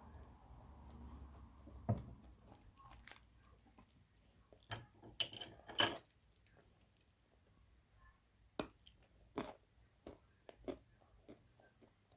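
Dry blue clay being bitten and chewed: sharp crunches, the loudest run of them about five to six seconds in, then sparser crunching.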